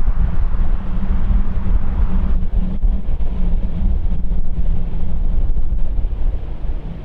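Jet airliner engine rumble, deep and steady, with the higher-pitched part of the noise dying away about two seconds in. Wind buffets the microphone throughout.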